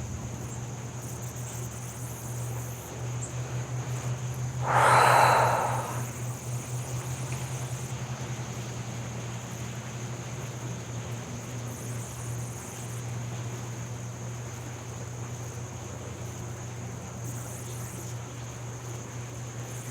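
Outdoor ambience: a steady high insect trill over a low, steady hum, with one loud breathy whoosh about five seconds in.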